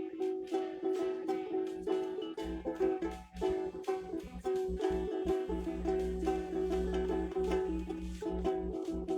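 Acoustic guitar strummed in a loose, repeating chord pattern. A low steady hum comes in about two and a half seconds in and briefly cuts in and out.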